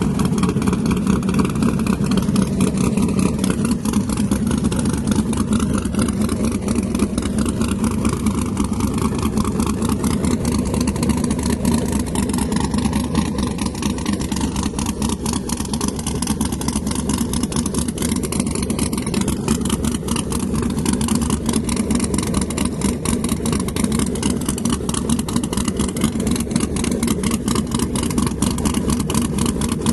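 A drag car's engine running steadily at low speed, its exhaust pulses coming fast and even, with no hard acceleration.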